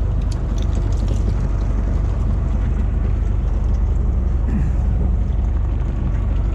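Fishing boat's engine running steadily, a low rumble.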